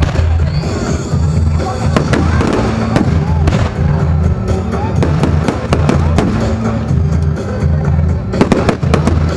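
Fireworks exploding and crackling in quick succession over loud music with a heavy bass beat.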